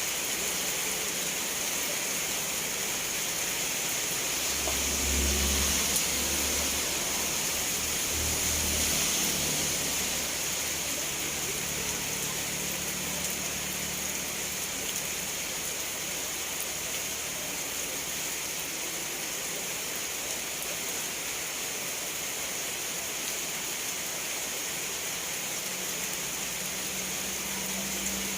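Steady heavy rain falling, an even hiss. Two short low rumbles swell up about five and eight seconds in.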